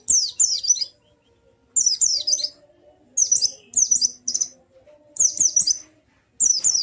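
Pleci (white-eye) singing: short phrases of two to four quick, high chirps that each sweep downward, separated by pauses of about a second.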